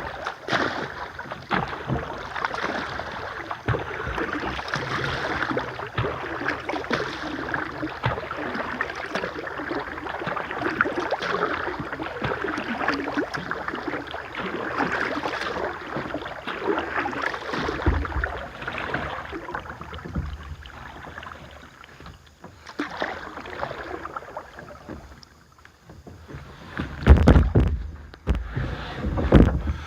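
Water splashing and gurgling around a kayak on a river, a dense crackling wash that thins out and quietens after about twenty seconds. A couple of loud low rumbles come near the end.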